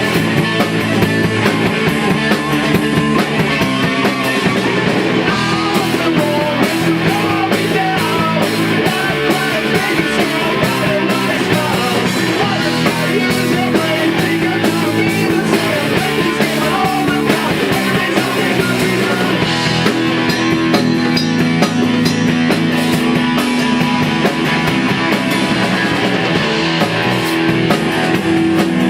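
Rock band playing a loud punk-rock song at rehearsal: electric guitars over a drum kit, without a break.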